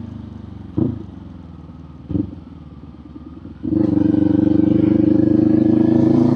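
Kawasaki Z400 parallel-twin engine and exhaust running low with two short sharp blips about one and two seconds in, then the throttle opens and the exhaust note jumps to a loud, steady pull for the last few seconds.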